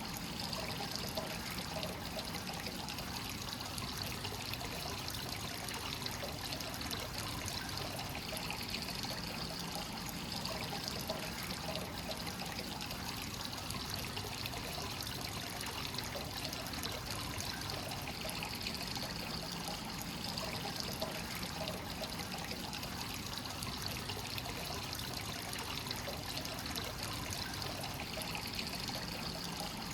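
Hot spring source water pouring continuously into a bath, a steady trickling and splashing with no break.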